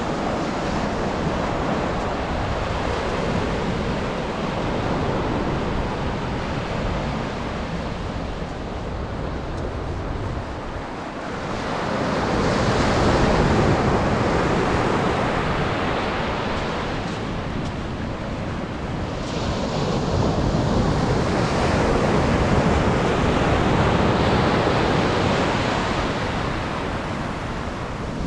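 Atlantic surf breaking and washing up a sandy beach, with wind rumbling on the microphone. The surf swells louder twice, about twelve seconds in and again about twenty seconds in.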